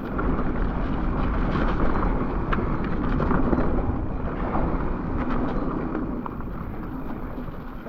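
Mountain bike rolling down a wet, muddy trail: steady tyre and wind noise on the microphone, with scattered clicks and rattles from the bike.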